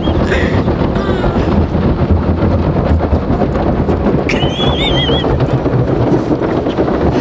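Automatic car wash running over the car, heard from inside the cabin: a steady, heavy rush of spray and machinery. About four seconds in, a dog gives a high, wavering whine.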